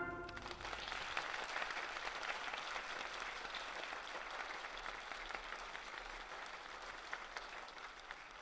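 Audience applauding, the clapping slowly fading away as the music ends.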